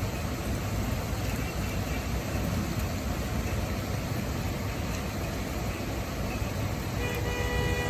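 Steady rushing noise of a downpour with wind. Near the end a vehicle horn sounds once for about a second.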